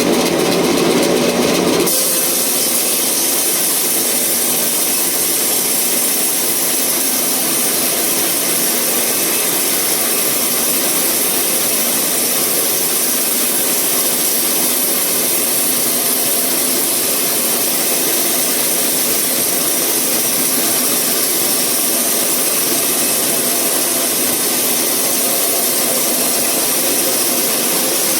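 Sawmill saw cutting through a eucalyptus log: a loud, steady rushing noise, mostly high-pitched. About two seconds in, the lower part of the sound drops away.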